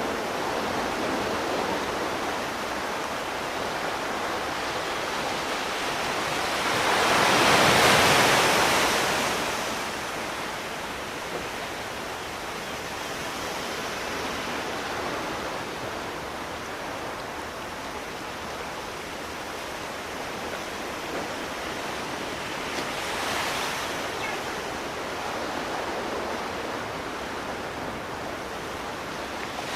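Sea waves washing on a shore: a steady surf hiss with one large wave breaking and swelling up about eight seconds in, a smaller one a little past twenty seconds in, and another building at the very end.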